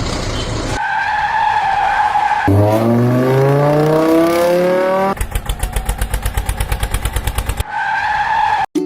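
A string of vehicle sound effects. First a tyre screech, then an engine revving up in a rising glide, then a fast even rattle of about ten pulses a second, and a second screech near the end.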